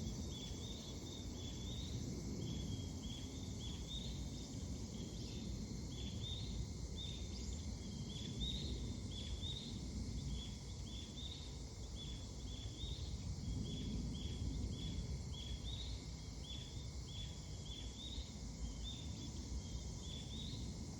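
A bird chirping over and over, short notes at about two or three a second, over a steady low background rumble.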